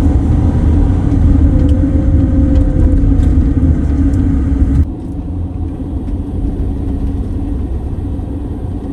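Motorhome driving uphill on a mountain road: a steady low rumble of engine and road noise. About five seconds in, the level drops suddenly and the rumble carries on quieter.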